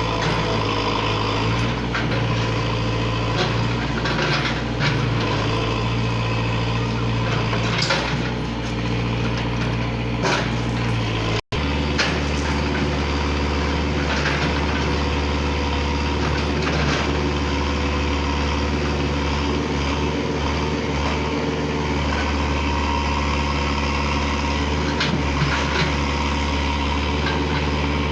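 Tractor engine running steadily. About eleven seconds in, the sound breaks off for an instant, and after the break the engine runs at a lower, deeper pitch.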